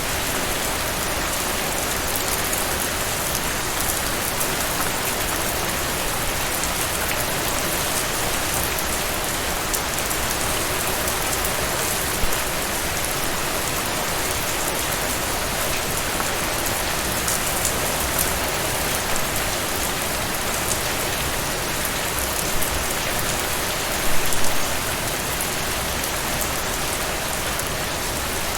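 Steady rain falling: an even hiss of rainfall with individual drops ticking through it, and a few brief louder spatters, the biggest about four-fifths of the way through.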